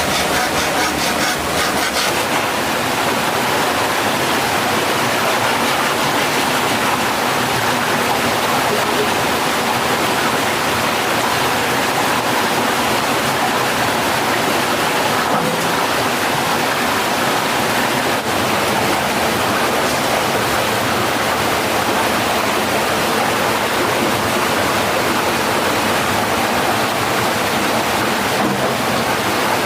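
Mountain stream water rushing steadily over rocks, a dense, even rush of water.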